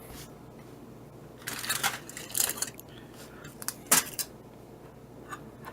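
Aluminum foil crinkling in a few short bursts as it is pulled back from the covered roast, with a single sharp click about four seconds in.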